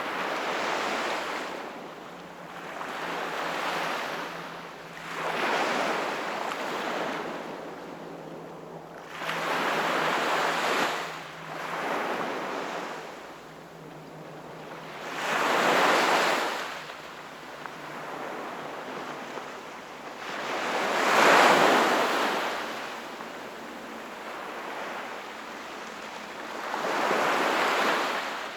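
Sea waves breaking and washing in, swelling and fading every few seconds, the loudest surge about three quarters of the way in.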